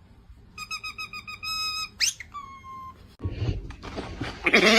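A quick run of high, beep-like whistled notes ending in a held note, then a fast rising whistle and a second held note. Near the end a loud, wavering animal bleat begins.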